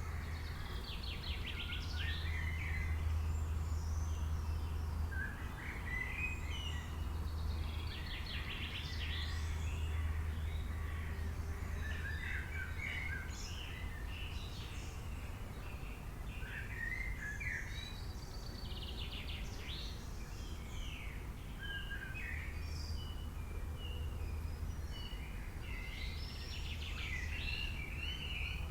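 Songbirds chirping and singing, many short calls and trills one after another, over a steady low hum.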